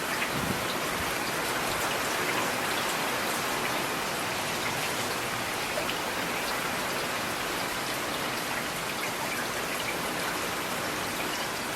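Steady rain falling on hard surfaces, with a dense even hiss and scattered individual drops ticking.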